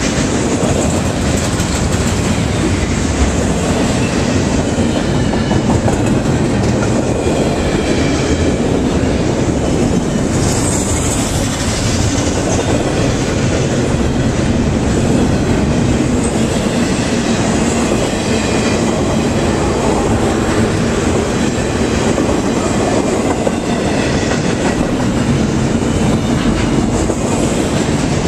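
Intermodal freight cars of a CSX train rolling past close by: the loud, steady noise of steel wheels running on rail.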